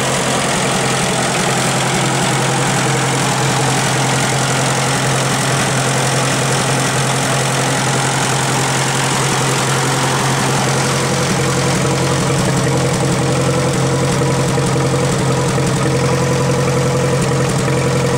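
Oliver tractor engine idling steadily shortly after a cold start.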